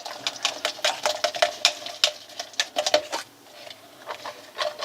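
Runny slime being stirred and squished as borax activator is worked in to thicken it, making a fast run of sticky clicks and pops that eases off briefly past halfway.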